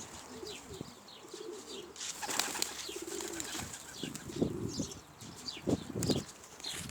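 Domestic pigeons cooing low, with a few brief wing flutters and faint high chirps.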